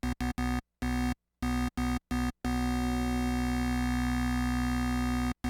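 Synthesizer lead patch on an Access Virus TI, a wavetable oscillator layered with a square-wave oscillator pitched down two octaves. It plays a string of short repeated notes on one pitch, then holds a single note for about three seconds, then starts short notes again near the end.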